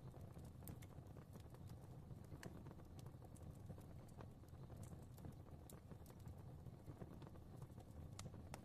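Fireplace fire crackling faintly: a low steady rumble of flames with frequent small, irregular pops and snaps.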